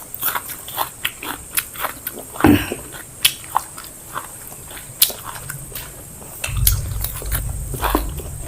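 Close-miked chewing of biryani and salad, with many short wet mouth clicks and smacks. A low rumble joins in about six and a half seconds in.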